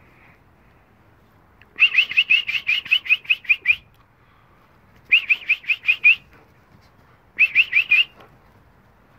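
A bird calling in three runs of quick, rising chirps, about five or six to a run-second, the first run the longest and the last the shortest.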